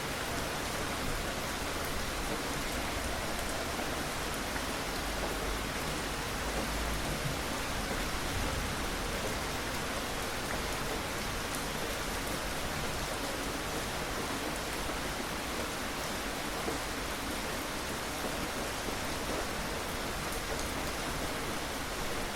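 Steady rain falling, an even hiss of drops on a surface with no breaks.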